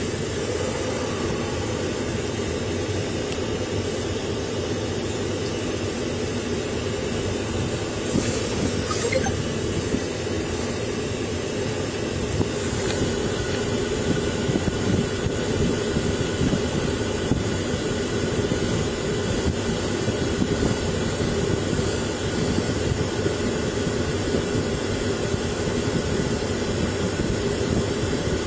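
Steady vehicle noise: a continuous low rumble with a thin hiss above it, with a few faint clicks about eight to nine seconds in.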